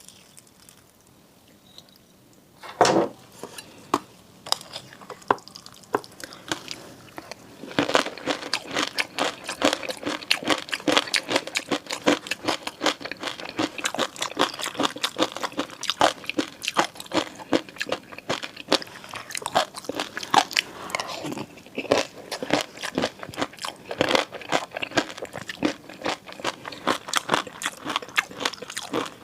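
Close-miked eating: biting and chewing food with rapid, crackly crunching clicks. It starts with a sharp click about three seconds in and a few scattered ones, then turns into a dense, steady run of crunching from about eight seconds on.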